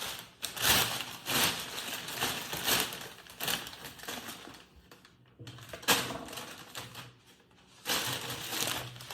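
Irregular crinkling and rustling handling noises in short bursts, with a brief pause about five seconds in.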